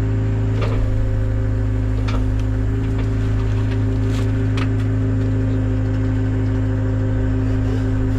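Engine of a compact cleanup machine running steadily at a constant speed, with a few short knocks and clacks of the machine working.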